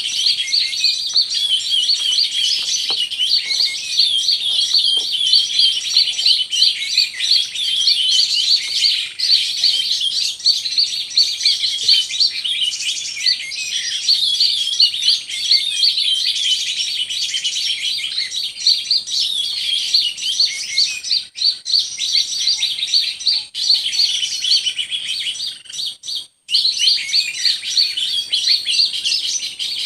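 Birds chirping and twittering in a dense, rapid, high-pitched stream that hardly lets up, with a brief break about 26 seconds in.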